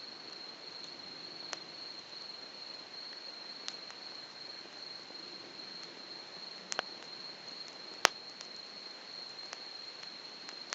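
Wood fire burning on open ground, giving a handful of sharp pops and cracks over a soft hiss; the loudest crack comes about eight seconds in. A steady high-pitched insect trill runs behind it.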